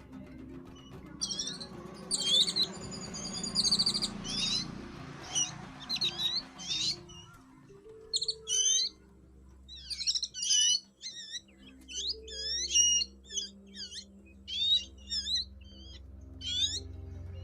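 Birds chirping in many short, quick calls, some sweeping up or down in pitch, over soft background music with long, held low notes.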